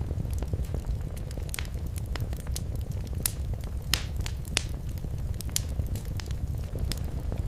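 Wood fire crackling in a fireplace: irregular sharp pops and snaps over a steady low rumble of flame, with a louder pair of pops a little past the middle.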